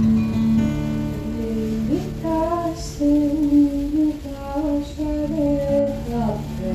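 Music: a strummed acoustic guitar chord rings, and a high voice sings a melody over it from about two seconds in until near the end.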